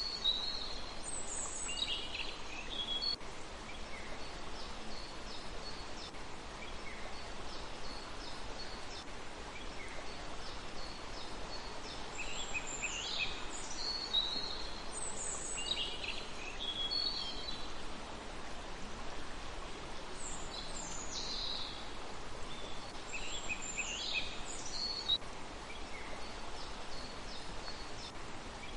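Birds calling in bursts of short, high chirps: a cluster at the start, another about twelve seconds in, and a third about twenty seconds in. A steady outdoor hiss lies underneath.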